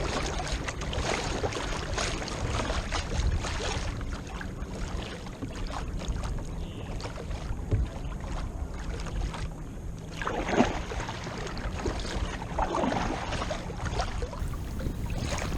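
Water splashing and sloshing around a fishing kayak on the move, with wind noise on the microphone.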